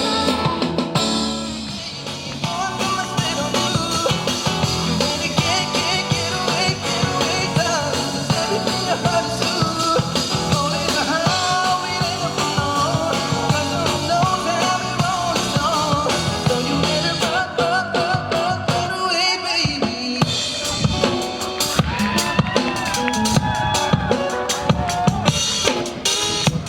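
A live band playing an instrumental passage with no vocals: melodic instruments over a drum kit with bass drum and snare rimshots. The drum hits grow sharper and more frequent in the last several seconds.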